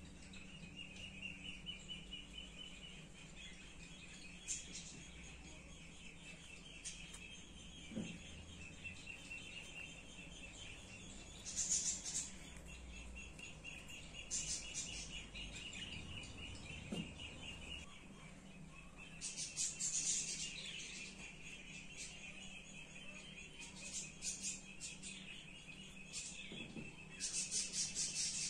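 Small birds chirping, with runs of rapid high notes repeating through, and louder clusters of sharp chirps now and then. A faint steady low hum lies underneath.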